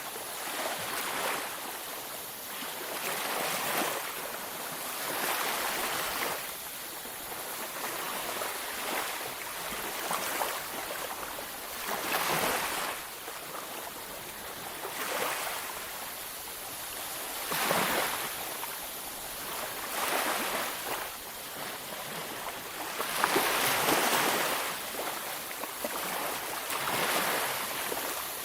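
Waves breaking and washing up a beach, one surge after another every few seconds, a few of them louder than the rest.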